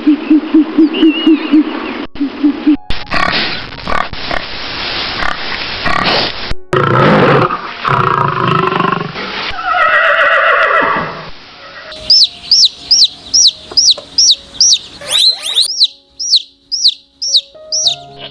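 A run of different animal calls spliced one after another. First comes a quick series of low grunts, then a noisy stretch, then a long call falling in pitch. The run ends with rapid high chirps, about three a second.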